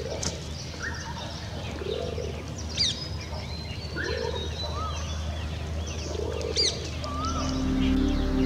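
Outdoor birdsong: a low note repeated about every two seconds, with sharp high chirps and a few short whistles. Background music fades in near the end.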